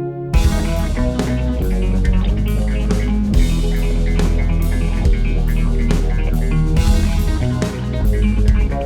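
Electric guitar played through an EarthQuaker Devices Grand Orbiter phaser pedal, with bass guitar and a drum kit. The full band comes in with a hit just after the start.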